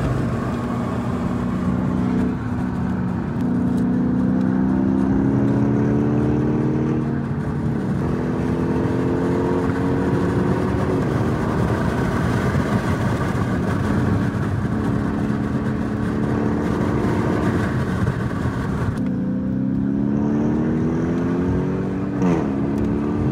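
Audi RS3's turbocharged five-cylinder engine heard from inside the cabin, pulling up through the revs in rising sweeps that drop back in pitch several times as it shifts or lifts, over steady road noise.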